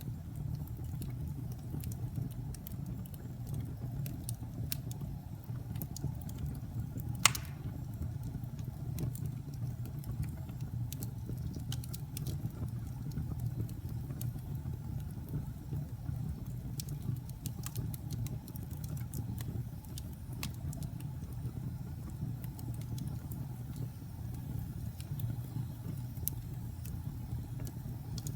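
Wood fire crackling: scattered sharp pops and snaps over a steady low rush, with one loud pop about seven seconds in.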